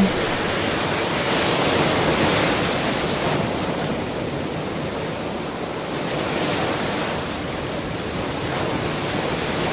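Ocean surf: a steady rush of waves breaking and washing on a shore, gently rising and falling in loudness.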